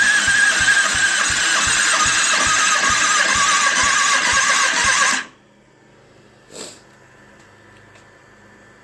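Electric starter cranking the Kawasaki ZX-6R's inline-four engine over without firing for a compression test, on a weak battery. It runs with a steady whine and even compression pulses of about four a second, then cuts off suddenly about five seconds in, with one brief noise a second or so later.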